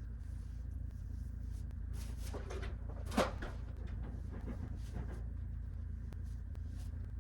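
A few short knocks and rattles, the sharpest a little over three seconds in, over a steady low hum.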